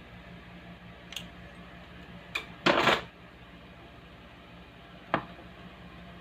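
Steady low electrical hum, the humming fault being worked on. Over it come a few light clicks and, about two and a half seconds in, a brief loud scraping rustle of handling.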